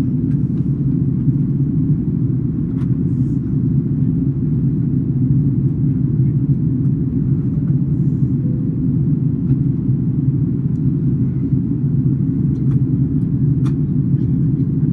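Steady low rumble of an Airbus A330-200 in flight, engine and airflow noise heard from inside the passenger cabin, with a couple of faint clicks.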